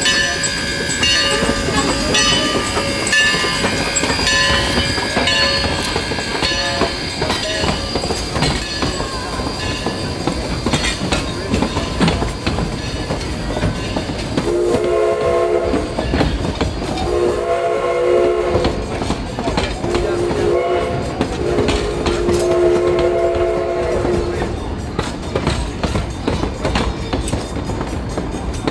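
Steam train rolling along with wheel clicks over rail joints, while the steam whistle of Baldwin 2-8-2 locomotive #152 sounds ahead. The whistle gives the grade-crossing signal: two long blasts, a short one and a final long one. A high steady squeal fades out over the first several seconds.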